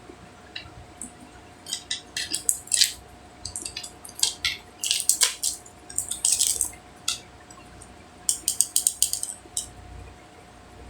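Makeup packaging and cosmetic items being handled: several runs of quick, sharp clicks and taps, like plastic cases and lids knocking and snapping, over a faint steady hum.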